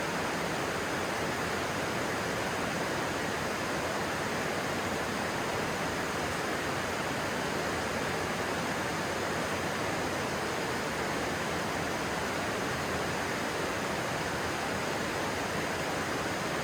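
Stream water rushing steadily, a constant even wash of sound.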